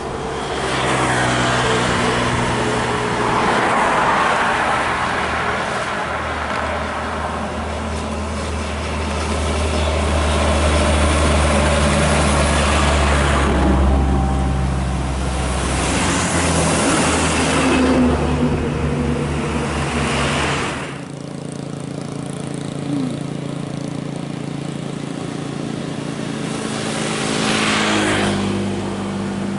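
Road traffic of trucks and buses passing close by, several times swelling up and fading away, over the steady hum of engines. A deep engine rumble under the passes drops away about two-thirds of the way through.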